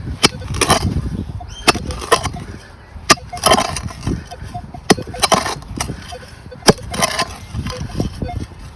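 A digging tool cutting into hard, gritty soil to open a plug over a metal-detector target. About five sharp strikes, each followed by a rough crunching scrape of soil.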